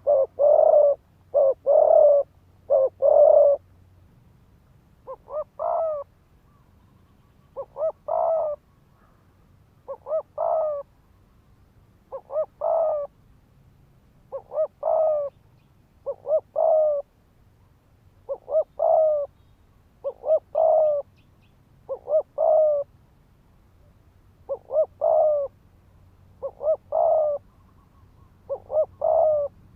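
Spotted dove cooing rapidly in repeated short phrases of two or three coos, about one phrase every two seconds, with a quicker run of coos in the first few seconds. This fast, urgent cooing is the kind used to provoke rival males.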